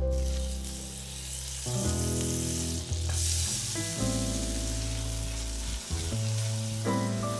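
Butter sizzling in a stainless steel saucepan, the sizzle growing stronger about three seconds in as chopped shallots start to sauté, with a silicone spatula stirring them. Background music plays throughout.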